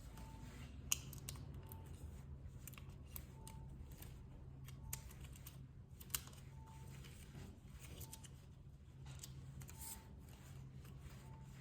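Scattered small clicks and taps of hand tools working on a smartphone during a battery replacement, two of them sharper near one second and six seconds in, over a steady low hum.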